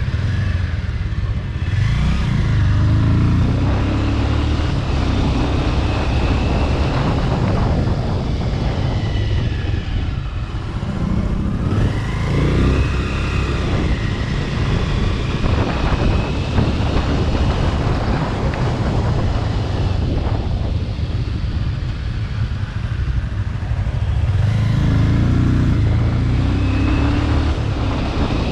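Bajaj Pulsar RS200's single-cylinder engine with a modified aftermarket exhaust, running under way as the bike is ridden, its note rising and falling a few times with throttle and gear changes. Wind noise on the microphone runs under it.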